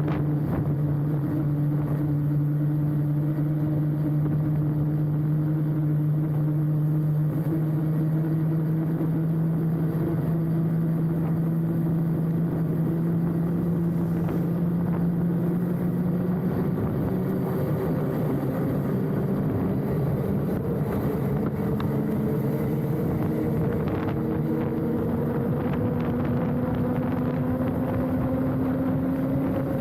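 Mountain bike rolling at speed, heard from the handlebar: a steady hum over rushing noise that rises slowly in pitch from about halfway through as the bike speeds up.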